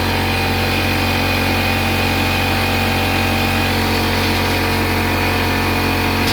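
A steady, unchanging mechanical hum of a motor running.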